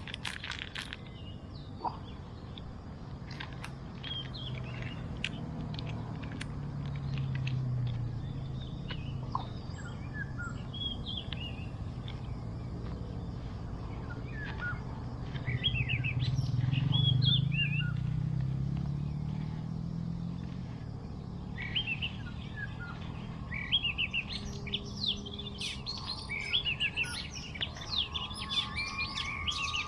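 Birds chirping, many short high calls scattered throughout and busiest near the end, over a low rumble that swells twice, the louder swell a little past the middle.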